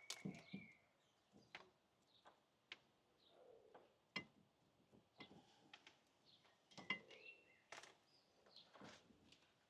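Faint, scattered clicks and light metallic knocks of brake parts and hand tools being handled while the rear brake caliper is refitted, irregular and a second or so apart.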